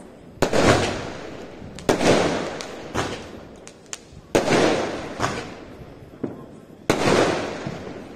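Multi-shot firework cake firing in sequence: four loud bangs about two seconds apart, each dying away over a second or so, with lighter pops and crackles in between.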